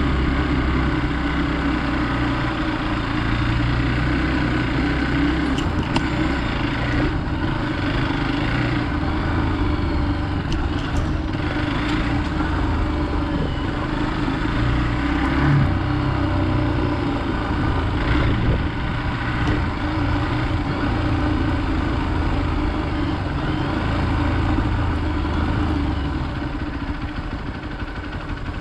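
Hero Xpulse 200 motorcycle's single-cylinder engine running steadily while riding off-road, with a few light knocks along the way.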